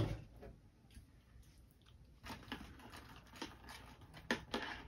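A person chewing a mouthful of Cinnamon Toast Crunch Rolls cereal in milk: faint, irregular crunches from about two seconds in. There is a single knock right at the start.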